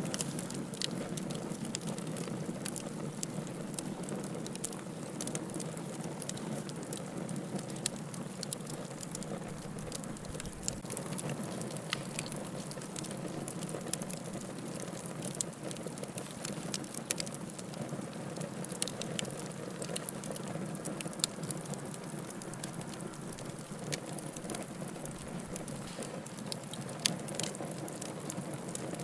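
Wood fire burning in a fireplace: a steady low rush of flame with many irregular sharp crackles and pops from the burning logs.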